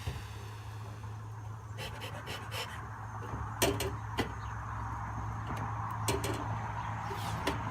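Bee smoker being tended as pine needles catch inside it: a few scattered sharp clicks and crackles in three small clusters, over a steady low wind rumble.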